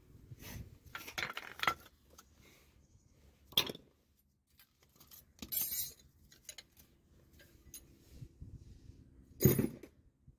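Metal tools and car parts clinking and knocking as they are handled, in a series of separate irregular clinks with a louder knock near the end.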